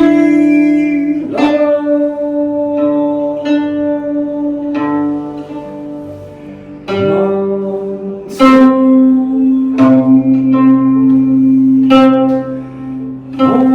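A plucked string instrument playing a slow melody, each note left to ring, with a few notes sliding up in pitch as they begin.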